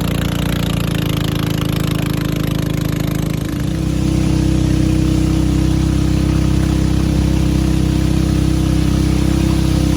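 Small engine running steadily, then revving up and getting louder about three and a half seconds in, settling into a steady higher drone.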